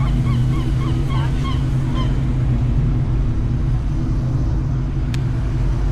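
Steady low rumble of a vehicle engine. Over the first two seconds a rapid series of short honking calls, about four a second, carries over it and then stops.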